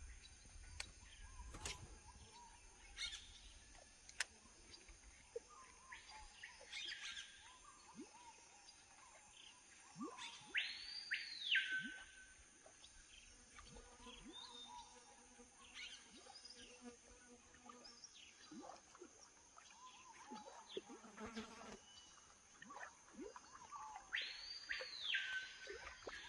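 Faint tropical forest ambience: scattered bird chirps over a steady high insect buzz. Twice, about ten seconds in and again near the end, a louder bird call rises and falls in pitch in an arch lasting about a second.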